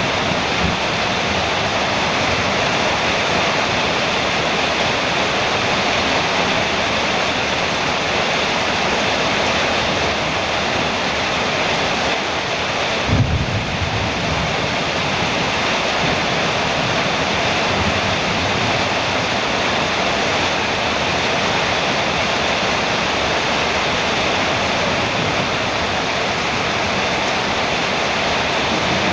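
Heavy rain falling steadily on a metal roof, a dense, even hiss. A brief low thump comes about halfway through.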